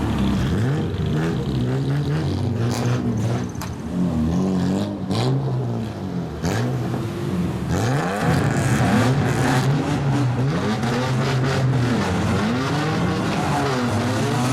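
Straight-piped kaido-racer car exhausts revving loudly in repeated throttle blips, the pitch swooping up and down, with several engines overlapping. It gets louder and harsher about halfway through.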